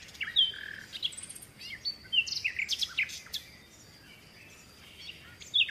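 Small birds chirping, quick short high notes, some sliding in pitch, over the first three seconds or so, then a lull broken by one more chirp near the end.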